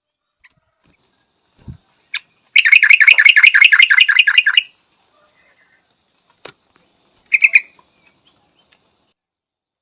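Yellow-vented bulbul calling: a short note, then a fast rattling chatter of about ten notes a second lasting about two seconds, and a brief double note near the end.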